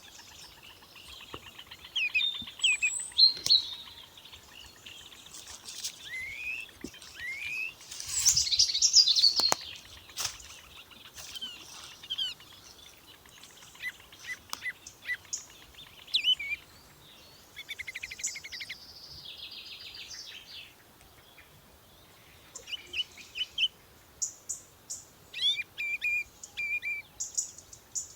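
Several small songbirds singing and calling together: overlapping high chirps, short whistles and rapid trills, with a loud burst of song about a third of the way in.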